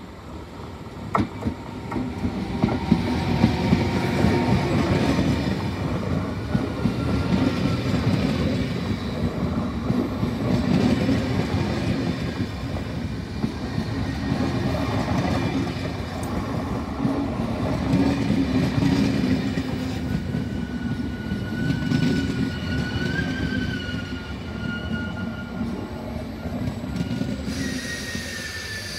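Trenitalia Vivalto double-deck regional train running past on the rails. Wheels clatter over the track joints with a rumble that builds about a second in and holds, and thin wheel squeals come in during its second half.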